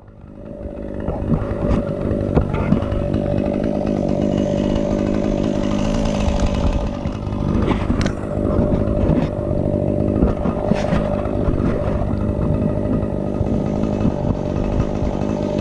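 Stihl chainsaw engine running steadily, building up over the first second, with a couple of sharp knocks partway through.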